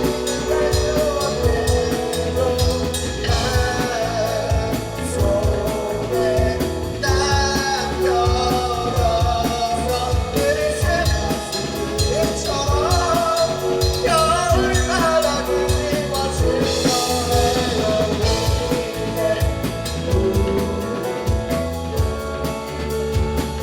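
A rock band playing a song, with a singer's voice over drum kit and instruments.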